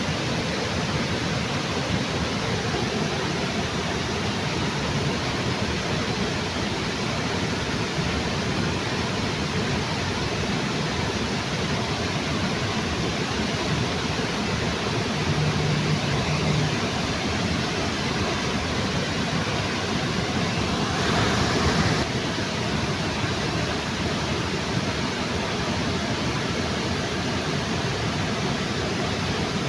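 Waterfall under a bridge: steady rushing of falling water. A short low hum comes about halfway through, and a brief louder surge of noise about two-thirds of the way in.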